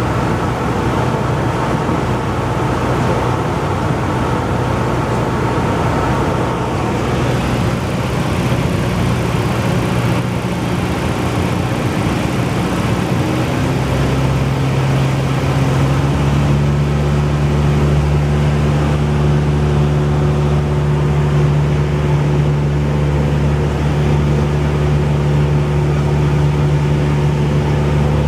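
Cessna 172's piston engine and propeller running steadily. About halfway through, the engine note steps up to a higher, stronger steady pitch as power is increased.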